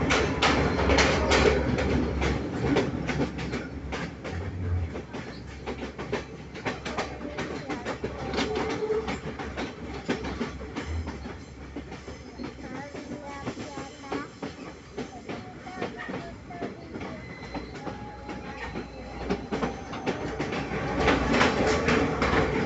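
Passenger train running on the rails, its wheels clattering over the rail joints in a steady clickety-clack. The noise is louder at first, eases through the middle and swells again near the end.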